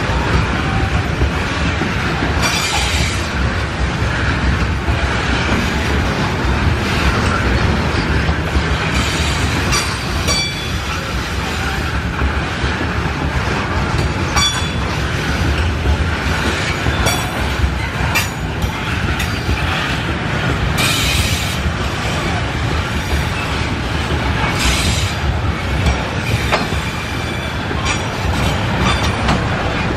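A long train of loaded coal hopper wagons rolling past, a steady heavy rumble with irregular clacks of wheels over rail joints and brief high wheel squeals.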